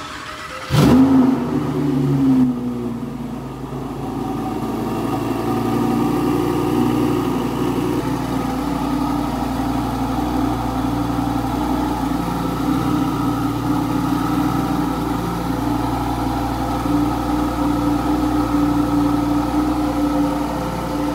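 Lamborghini Huracán V10 engine revving sharply about a second in, the pitch falling back, then idling steadily.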